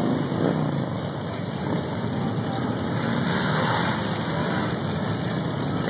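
Motorcycle engines running at low speed in a steady din, with faint voices mixed in.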